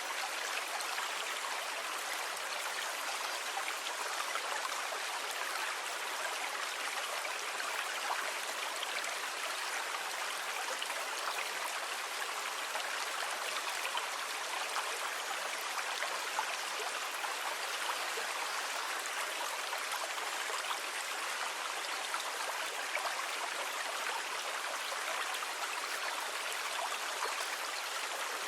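Sea water making a steady, even hiss with a fine crackle, with no swell or break of waves.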